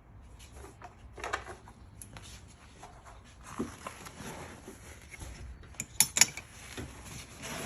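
Plastic air filter box being handled and set back into place in an engine bay: light rustling and scattered knocks, with two sharp clicks in quick succession about six seconds in.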